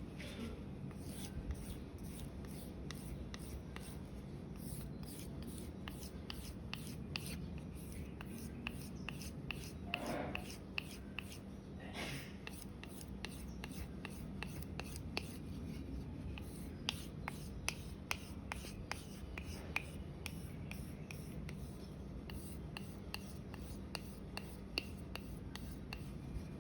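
Victorinox paring knife blade being stroked across a whetstone, a steady run of short scraping strokes a few times a second. This is the edge being refined to remove a remaining burr.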